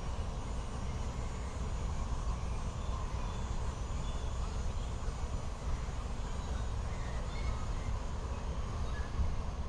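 Steady low outdoor rumble, with a few faint brief high chirps here and there.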